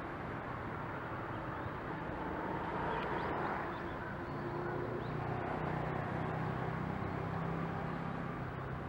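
Steady outdoor background rumble of distant road traffic, with a low engine hum growing stronger about halfway through.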